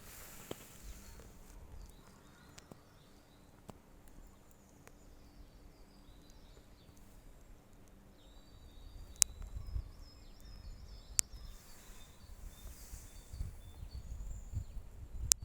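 Small songbirds chirping faintly in a forest. A few sharp clicks stand out, and a low rumble builds through the second half.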